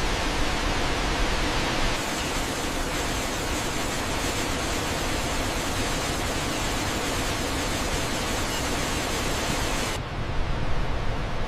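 Steady rushing of falling water from a waterfall. The sound changes slightly about two seconds in, and again near the end, where it turns duller and more uneven.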